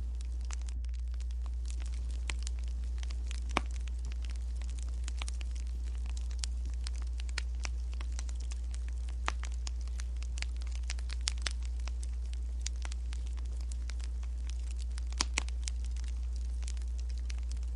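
Wood fire crackling, with irregular sharp pops and snaps, over a steady low hum.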